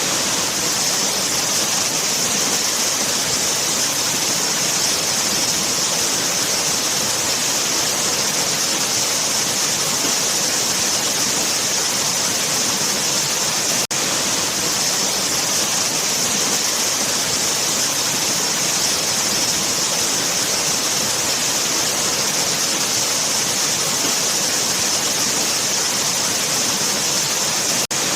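Waterfall: a steady, loud rush of falling water, with a brief dip in level about halfway through and again just before the end.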